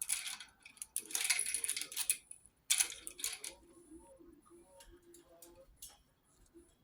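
A parrot's hanging toy rattling and jangling as the bird grabs and shakes it, in three bursts over the first three and a half seconds, then a few faint ticks.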